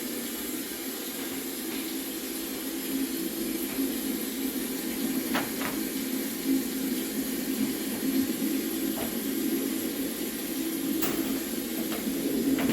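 Steady hiss of rain from a storm-sound recording played back, with a few sharp clicks.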